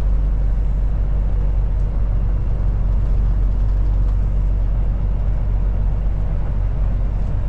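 Steady low drone of a Kenworth T680 semi truck's engine and road noise, heard from inside the cab while driving.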